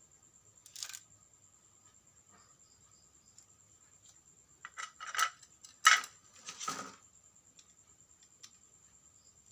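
Small hard parts and tools being handled during a battery-replacement repair of a portable vacuum cleaner: a brief scrape, then a short run of clicks, clinks and knocks about halfway through, the loudest around two-thirds of the way in.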